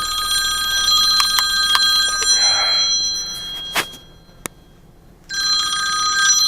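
A telephone-style electric bell ringing in two bouts: a long ring of about three and a half seconds, a short pause, then a second ring. A sharp click comes in the pause.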